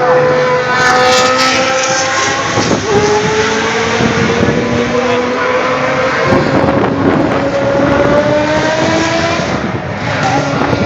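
Vintage Formula One car racing engines at high revs on track, the pitch of one engine climbing steadily as it accelerates, with a gear change about three seconds in.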